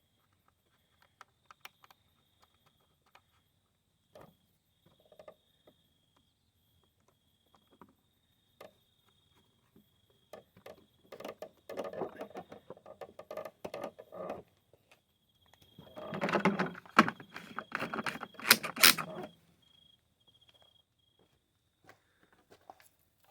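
Scattered clicks and taps of mower parts being handled, then two spells of rattling and clattering, the second louder, as the mower is put back together.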